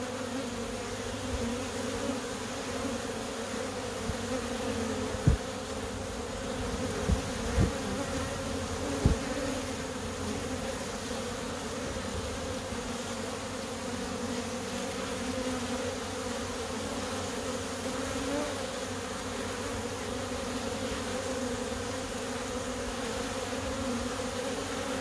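Steady hum of many honey bees flying at a busy hive entrance, with strong low pitches that waver slightly. Four short low thumps come between about a quarter and two fifths of the way through.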